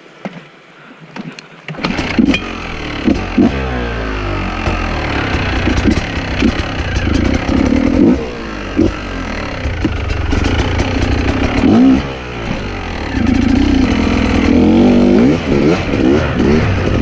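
Enduro dirt bike engine starting up about two seconds in, then running loud with repeated revs rising and falling in pitch.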